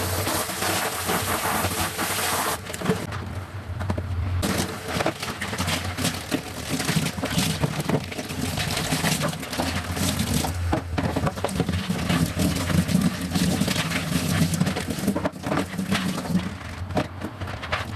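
Kitchen cabinet cleaning and handling: a hissing noise for the first couple of seconds, then scrubbing with frequent short knocks and clatter of items.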